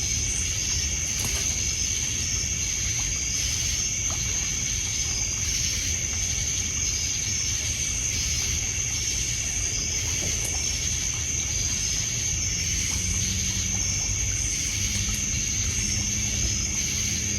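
Night ambience by a lakeshore campfire: crickets and other insects trilling steadily, with a second insect chirping about twice a second, over a low wash of water on a pebble beach and a few faint crackles from the fire. A low steady drone joins about thirteen seconds in.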